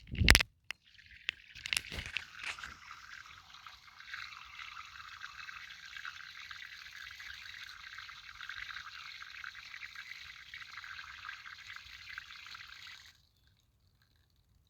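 A sharp knock just after the start, then water running from a tap as hands are washed under it, splashing steadily for about twelve seconds before it cuts off suddenly.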